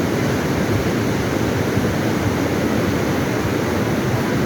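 Flash-flood water rushing, a steady loud rush heaviest in the low end with no breaks.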